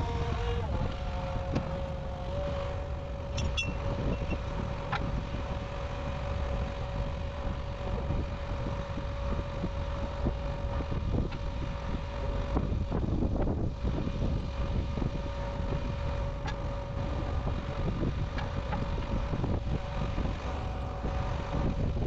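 A vehicle engine running steadily, a low rumble with a steady whine over it.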